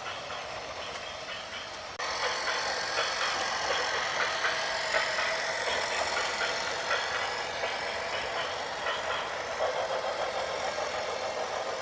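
A heavy vehicle's engine running with clatter. The sound jumps abruptly to a louder stretch about two seconds in.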